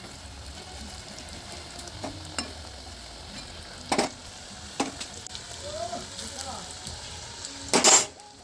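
Crumb-coated potato snacks frying in hot oil, a steady sizzle. A few sharp knocks break through it, the loudest near the end.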